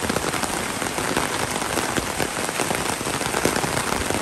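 Steady rain falling: a dense, even hiss of many fine drops.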